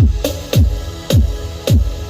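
Electronic dance music played loud through a big sound system: heavy kick drums that drop steeply in pitch, about one every half second, over a deep bass.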